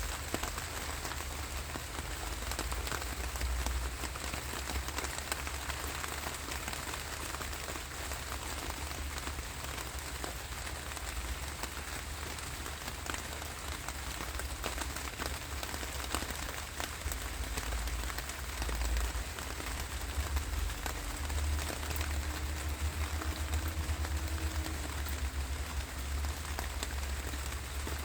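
Steady rain falling, with many separate drop hits over an even hiss and a low rumble underneath that grows stronger about two-thirds of the way through.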